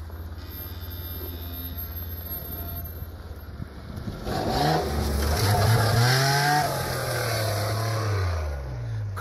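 Engine of a modified off-road 4x4 climbing a steep dirt slope: running steadily and low at first, then about four seconds in it revs up hard, holds high, and falls back near the end.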